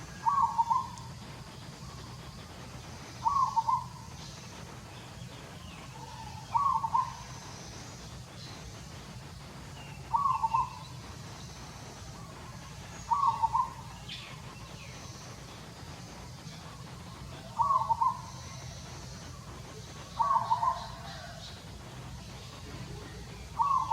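A bird calling: a short call repeated eight times at intervals of about three seconds, over a steady low background hum.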